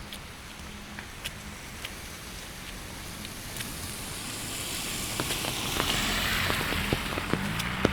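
Steady rain with sharp drops ticking close by; from about halfway a car's tyres hiss on the wet road, swelling as it passes.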